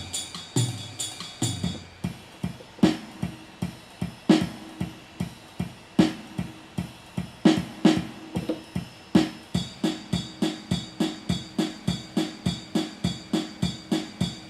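Yamaha PSR-350 keyboard playing one of its built-in accompaniment styles, mainly a drum-kit rhythm pattern. The pattern changes about two seconds in and settles into a steady, quicker beat near the end.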